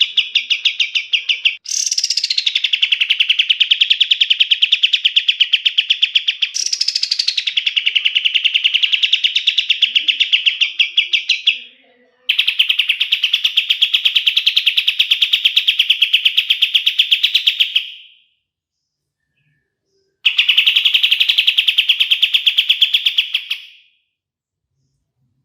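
Kapas tembak songbird singing long rolling trills of very rapid rattled notes, each phrase opening on a higher note that drops down. Five phrases of a few seconds each come one after another with short breaks, and the song stops about a second before the end.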